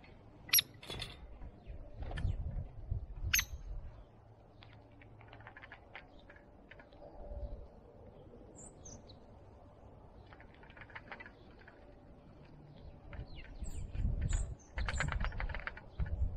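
Small birds giving short, high chirps now and then, with scattered sharp clicks and rustling and an uneven low rumble underneath.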